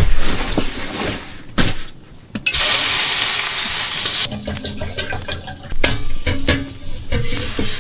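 Knocks and clatter of firewood being handled and loaded into a wood stove, with a loud, even rushing hiss lasting about two seconds near the middle.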